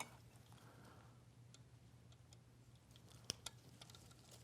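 Near silence with a steady low hum, broken by a few faint clicks of small metal parts being handled: hex bolts being set in place on a vacuum pump. The sharpest click comes about three seconds in.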